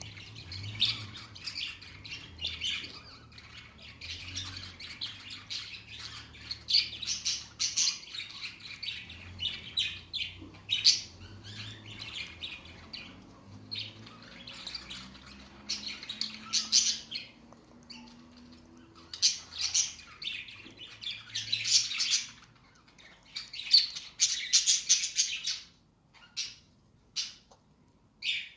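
Green parrot chirping and squawking in repeated chattering bursts, with short sharp clicks in between; it falls quieter near the end, leaving a few brief calls.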